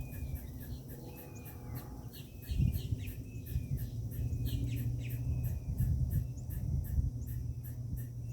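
Birds at a feeder calling, short slightly falling call notes about once a second, over a steady high ticking pulse about three times a second and a low rumble.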